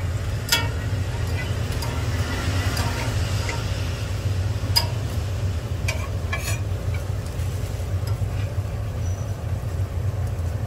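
Hotteok frying in shallow oil on a griddle, sizzling, while a steel hotteok press clicks sharply against the pan a few times as dough balls are pressed flat. Under it all runs a steady low rumble.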